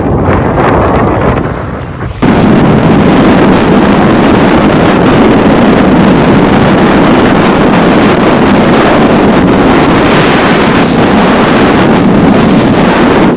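Strong wind buffeting the microphone aboard a sailing yacht under way, a dense steady rushing noise. About two seconds in it jumps abruptly much louder.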